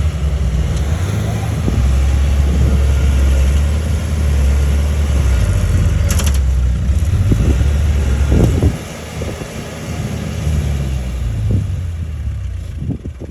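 Crawler bulldozer's diesel engine running under load with a steady low drone, then dropping back sharply about two-thirds of the way through and easing off toward the end. A brief high-pitched sound cuts in about halfway through.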